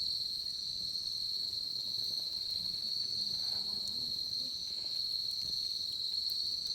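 Steady high-pitched chorus of crickets trilling without a break, with a few faint crackles from the bonfire.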